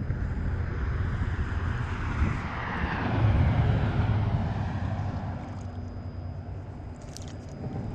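An engine passing by: it grows louder to a peak about three to four seconds in, then fades away with a falling pitch.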